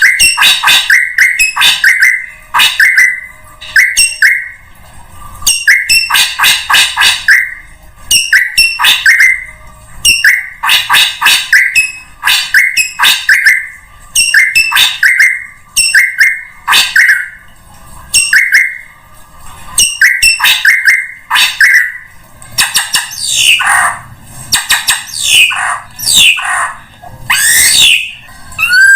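Drongo calls, as played in a bird-lure recording: repeated short bursts of fast, harsh, chattering notes with brief pauses between them. Toward the end they give way to a few swooping whistled notes.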